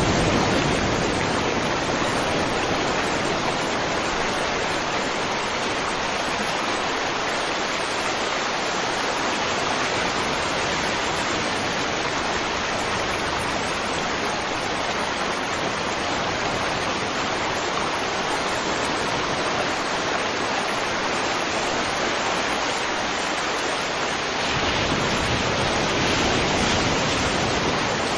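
Steady rush of running water, an even noise without distinct splashes, growing a little louder and fuller about 24 seconds in.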